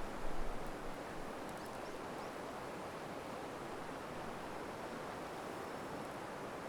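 Outdoor campfire ambience: a steady rushing hiss like flowing water, with a few faint crackles from the fire and a brief low thud about half a second in.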